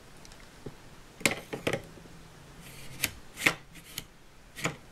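Hard plastic toy parts being handled: a handful of short clicks and light scrapes, spaced irregularly.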